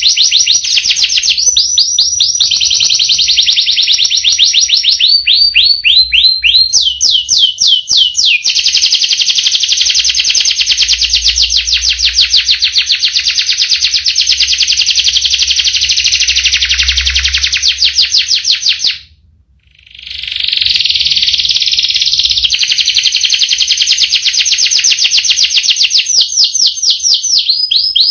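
Domestic canary singing long, rapid rolling trills, one fast repeated-note phrase running into the next, with a single short break about two-thirds of the way through.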